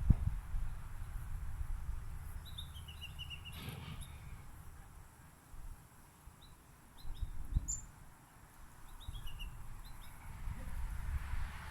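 Small birds chirping in three short runs of quick high notes, two of the runs stepping down in pitch, over a steady low rumble.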